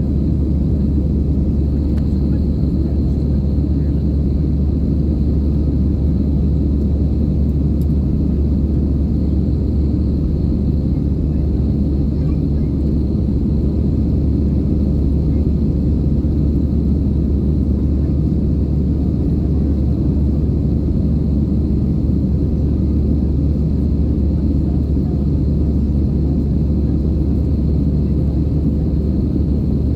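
Steady roar of jet engines and airflow heard inside an airliner cabin in flight, deep and unchanging, with a faint high steady whine above it.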